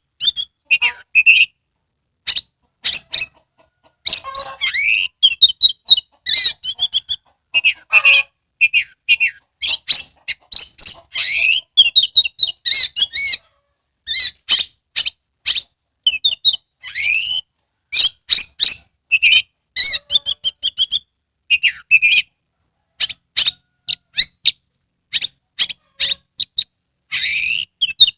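Oriental magpie-robin (kacer) singing a loud, continuous song of varied whistled phrases mixed with sharp clicking notes, broken by short pauses between phrases.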